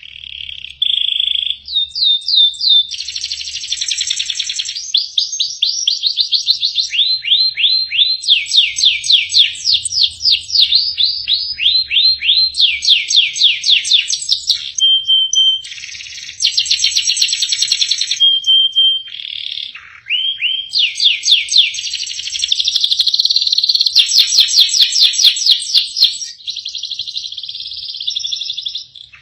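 Domestic canary singing a long, continuous song: one rapid trill after another, each a fast run of repeated notes lasting a second or two before the next phrase takes over, with only brief breaks.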